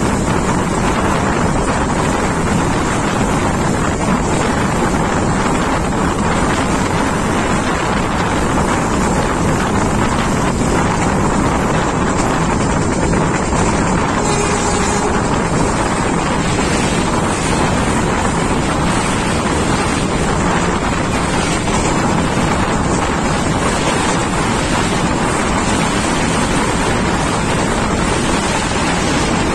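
Moving passenger train heard from outside the coach: wind rushing over the microphone with the steady run of the wheels on the rails, a loud even noise throughout.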